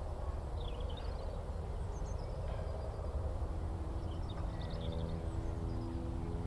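Scattered high chirps of small birds over a steady low rumble, and near the end a small propeller aircraft's engine drone coming in as a steady, growing hum of several tones.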